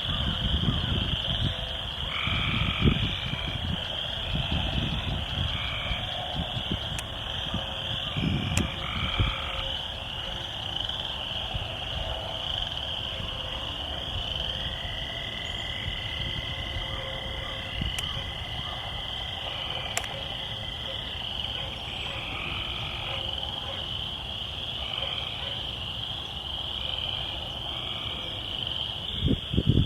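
A chorus of frogs and toads calling: a steady high trilling throughout, short repeated croaks, and one long even trill of several seconds about halfway through. Low rumbling on the microphone in the first ten seconds.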